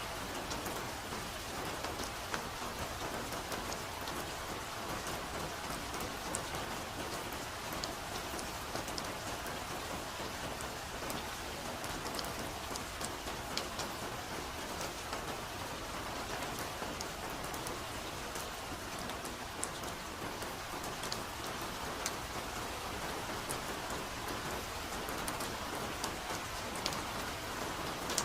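Soft, steady rain: an even hiss with many separate drops ticking close by.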